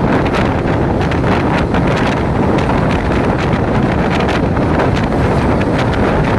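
Train running, a steady loud rumble dotted with irregular clatter and clicks, with wind buffeting the microphone.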